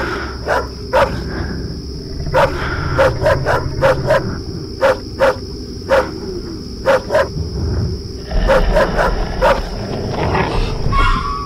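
A dog barking over and over in short, sharp barks, some in quick runs of three or four, with brief pauses between runs. A steady high-pitched tone and a low rumble run underneath.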